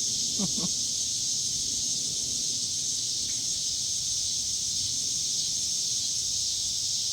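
Steady, high-pitched chorus of insects: an unbroken, hiss-like drone.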